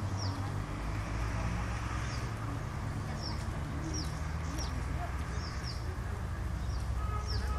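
Plumbeous water redstart giving short, thin, high call notes that slide downward, repeated irregularly about every half second to second. Under them runs a steady low rush of falling water.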